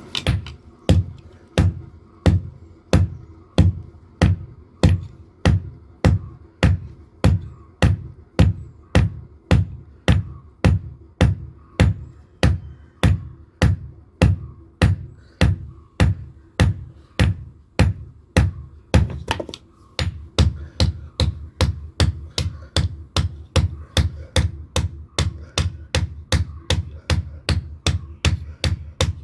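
Hand hammer striking hot steel on an anvil in steady rhythmic forging blows, about two a second, each with a short metallic ring. The blows pause briefly about two-thirds through, then resume slightly faster.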